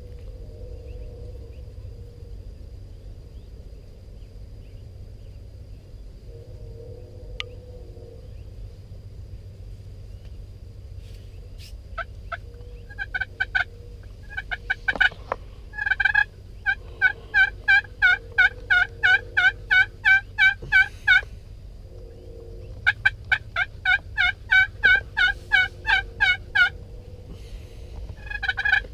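Wild turkeys calling: long runs of loud, evenly spaced notes, about three or four a second, starting about twelve seconds in and breaking off briefly twice.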